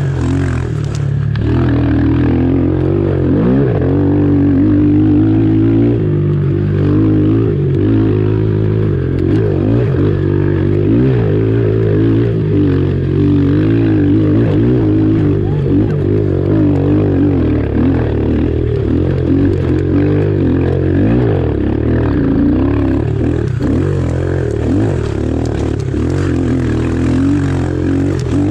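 Pit bike's small single-cylinder engine running continuously while ridden, its revs wavering up and down.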